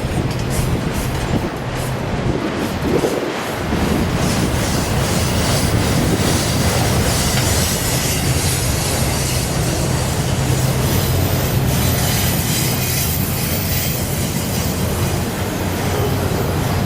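Freight train passing close by: a steady rumble of rolling cars under a low hum, with wheels clicking over the rail joints in the first few seconds.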